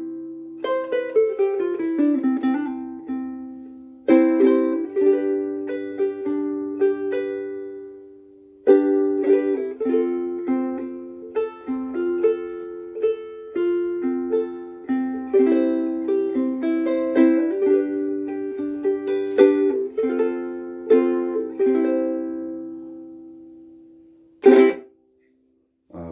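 Soprano ukulele strung with Aquila Reds strings being played: chords struck and left to ring with a long sustain, picked melody notes in between, ending on a sharp strummed chord near the end.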